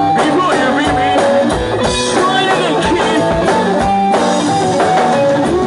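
Hardcore punk band playing live and loud: electric guitar and drum kit driving a steady beat.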